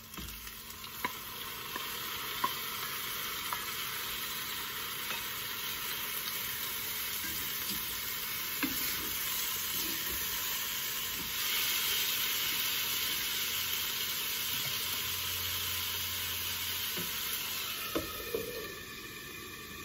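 Chopped tomatoes sizzling in hot oil in a Lodge cast iron mini wok, stirred with a wooden spatula that clicks against the pan now and then. The sizzle gets louder about halfway through and dies down near the end as a glass lid goes on.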